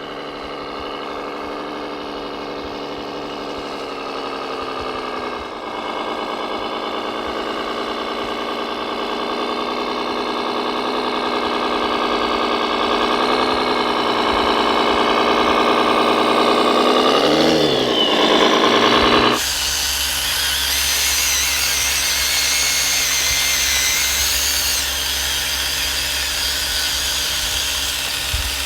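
Radio-controlled model vehicle running: a steady engine-like drone that slowly climbs in pitch with small dips, then switches suddenly about 19 seconds in to a hissier, higher whine.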